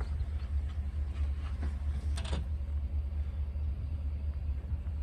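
Steady low rumble, with a short sharp noise a little over two seconds in.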